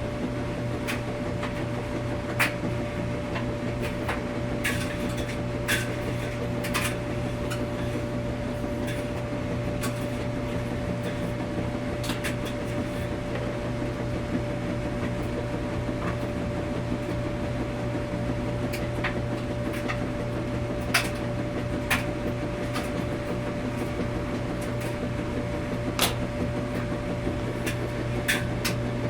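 Washing machine running with a steady hum and a constant tone, with irregular light clicks and knocks scattered through it.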